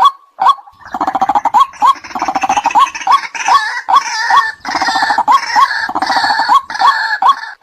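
White-breasted waterhen calling: a run of short, loud 'kwak' notes, two to three a second. From about a second in until near the end it breaks into a long bout of rapid, harsh croaking chatter, with the kwak notes still running through it.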